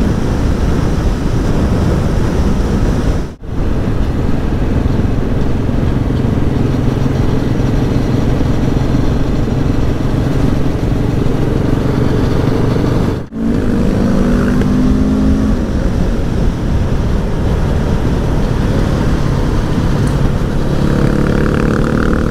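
Aprilia Tuono V4 1100 Factory's V4 engine running under way, with wind rush, heard from the rider's position. The sound breaks off briefly twice, and after the second break the engine pitch rises as the bike accelerates.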